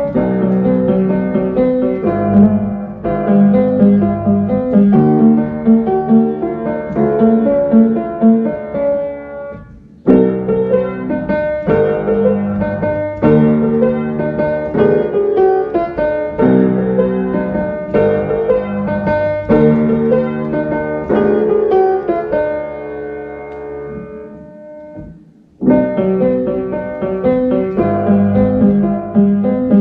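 Piano music, many notes played in a steady flow. It fades out and starts again abruptly about ten seconds in, and again a few seconds before the end.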